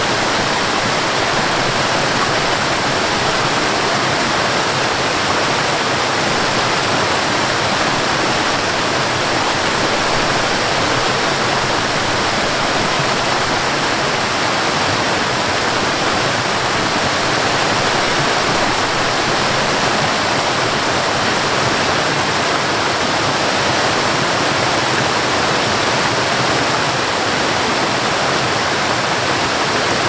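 Waterfall: water cascading down rock ledges in a steady, even rush.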